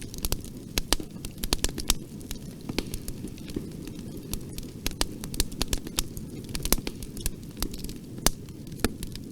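Bonfire crackling: many irregular sharp pops and snaps from the burning wood over a low steady rumble.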